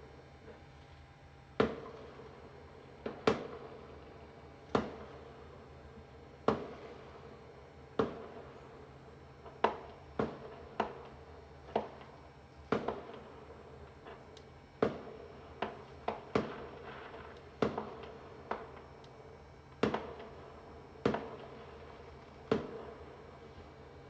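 Fireworks going off: a string of about twenty sharp bangs, each with a short echoing tail, roughly one every second or so and closer together in the middle. A few of the bangs are followed by a brief crackle.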